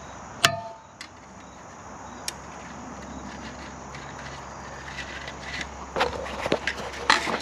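Fence wire being handled at a post: a sharp metallic clink with a brief ring about half a second in, a few faint clicks, then a cluster of clinks and scuffs near the end.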